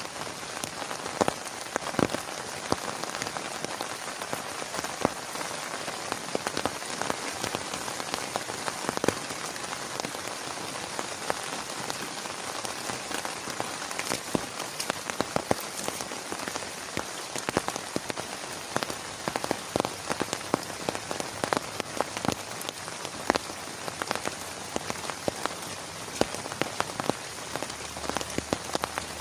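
Heavy rain falling steadily, with a dense patter of sharp, irregular drop impacts on a nearby surface.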